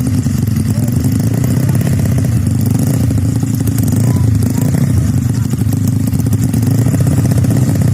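Tuned Yamaha Mio scooter engine running steadily and loud.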